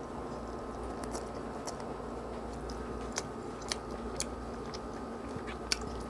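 A person chewing a mouthful of instant stir-fried noodles (pancit canton), with scattered small sharp clicks, over a steady background hum.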